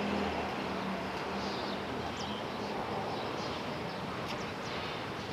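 JR Freight EF210 electric locomotive and its freight train running, a steady rumble and rush with a low hum that fades out about a second in.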